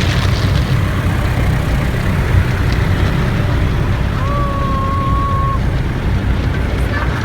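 Automatic car wash running, heard from inside the car: a steady low rumble with a hiss over it. A little past halfway, a single steady tone sounds for about a second and a half.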